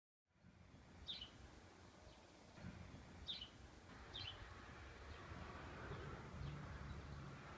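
Faint outdoor background with a low rumble, after a moment of dead silence, and three short bird chirps about one, three and four seconds in.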